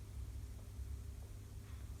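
Quiet room tone: a steady low hum with no clear event.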